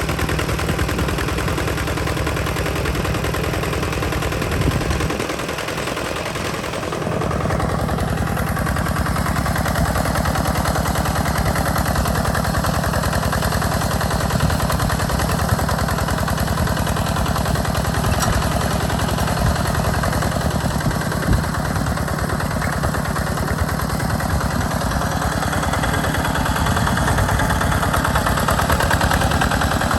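Small tractor engine running steadily under load while plowing sandy ground, with a rapid, even exhaust beat. The low end dips briefly about five seconds in, then the engine settles back into steady running.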